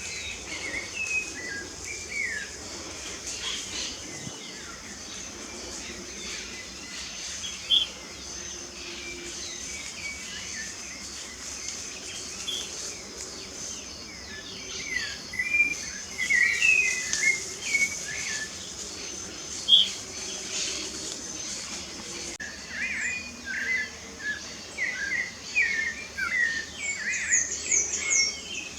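Several birds chirping and singing in quick, short notes, busier in the second half, over a steady high-pitched insect hum.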